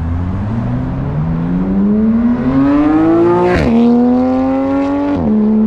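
LS V8-swapped Nissan 240SX accelerating hard: the engine note climbs steadily, drops sharply at an upshift about three and a half seconds in, climbs again and drops at a second upshift just after five seconds.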